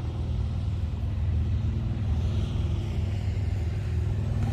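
Motorcycle engine running at a steady speed while riding: a steady low drone with wind rush.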